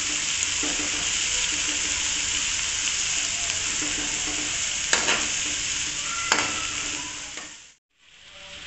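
Chopped onions sizzling in hot ghee in a metal karahi, stirred with a metal spoon that scrapes the pan and clicks against it twice, about five and six seconds in. The sizzle fades out to silence near the end.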